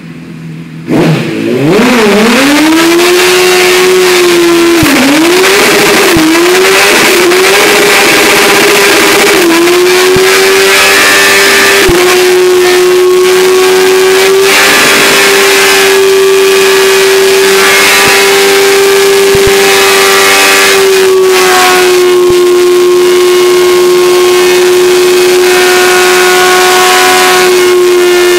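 Honda CBR1000RR Fireblade's inline-four engine revving hard in a burnout, with the rear tyre spinning in place. It comes in about a second in, dips and climbs several times, then is held at high revs from about ten seconds in to the end.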